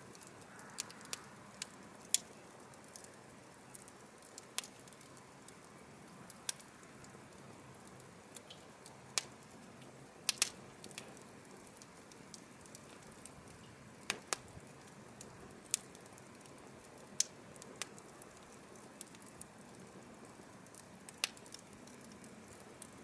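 Burning firewood crackling, with a steady soft hiss and sharp, irregular pops every second or two, some much louder than others.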